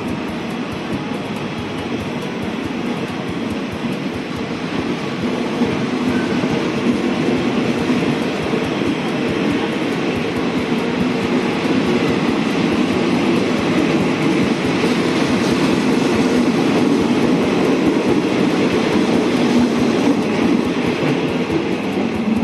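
Passenger train running along the track: a steady rumble of wheels on rails and rattling carriages with some clickety-clack, growing a little louder over the stretch.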